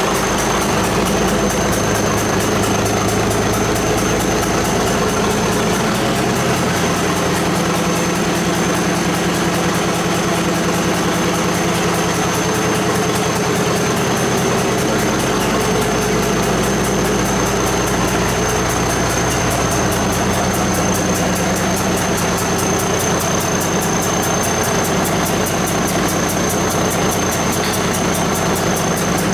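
1964 White truck's diesel engine idling steadily on its first run after about ten years of sitting. The engine note shifts slightly about six seconds in.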